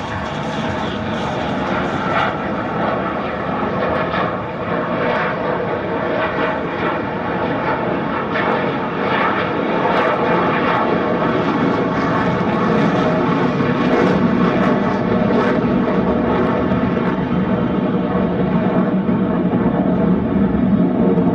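Sukhoi Su-30MKI fighter's twin jet engines during a slow, high angle-of-attack fly-past: a loud, steady jet engine noise that gradually grows louder.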